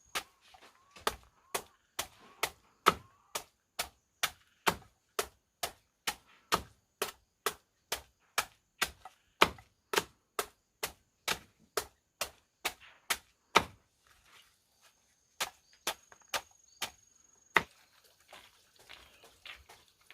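Steady chopping with a blade striking wood, about two strikes a second. After a short pause there are four more strikes, and then it stops.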